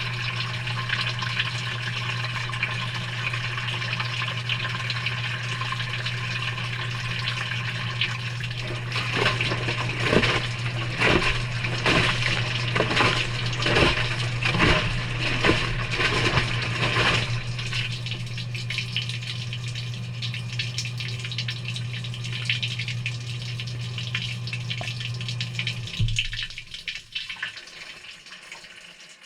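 Water sloshing and splashing inside the drum of a Maytag front-loading washing machine on a delicate cycle, heard from inside the drum, over a steady low machine hum. In the middle comes a run of rhythmic splashes, somewhat more than one a second. The hum stops suddenly a few seconds before the end.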